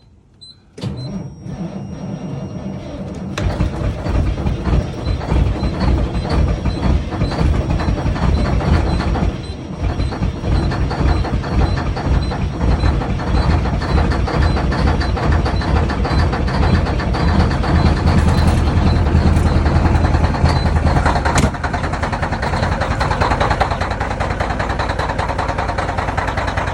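Caterpillar C15 inline-six truck diesel cold-started in freezing weather: the starter cranks for about three seconds, then the engine catches and runs loud and rough while cold, which the owner calls not happy.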